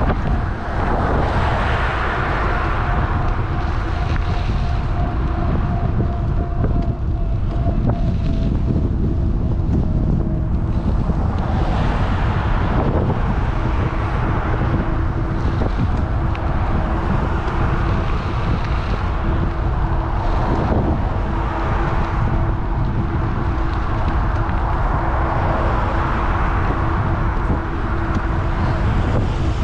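Wind buffeting an action camera's microphone on a moving electric bike, a constant heavy rumble with rushing noise that swells and eases every few seconds, likely passing traffic. A faint steady whine runs underneath.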